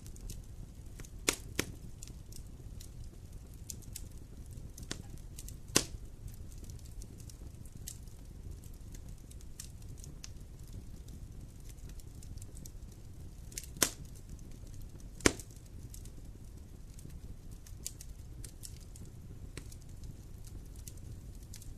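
Wood campfire burning: a low steady rumble with scattered crackles. Five sharper pops stand out: two close together about a second in, one near six seconds, and two about a second and a half apart past the middle.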